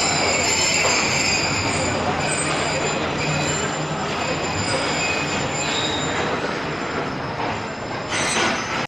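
Passenger train carriages rolling along the rails close by, a loud steady noise of the wheels with high-pitched wheel squeal held over it.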